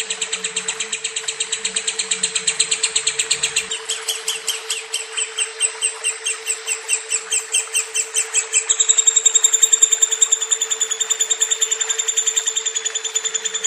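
Lovebird's long, rapid chattering trill (ngekek): an unbroken string of high, sharp chirps, about five a second, shifting slightly in tone about nine seconds in. A faint steady hum runs underneath.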